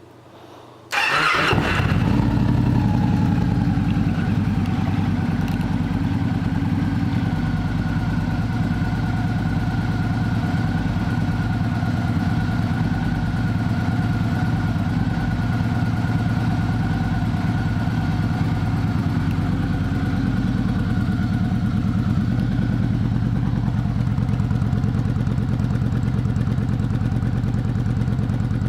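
2015 Victory Cross Country Magnum's Freedom 106 V-twin, fitted with a Victory Freedom Performance exhaust, is started about a second in and settles into a steady idle.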